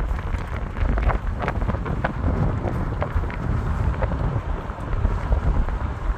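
Wind buffeting the microphone: a heavy, uneven low rumble, with scattered light clicks and crackles.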